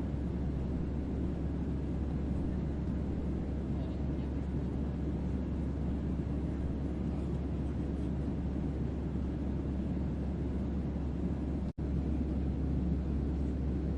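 Sleep-sound ambience of a starship's onboard hum: a steady deep bass hum under a dense wash of low rumbling noise. It cuts out for an instant about twelve seconds in.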